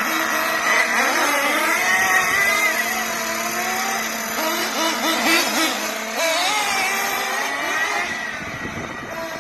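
Small nitro engines of 1/8-scale RC buggies (Kyosho MP9 and Mugen MBX7R) running hard, their high-pitched buzz rising and falling as the throttle is worked, with more than one engine pitch heard at once.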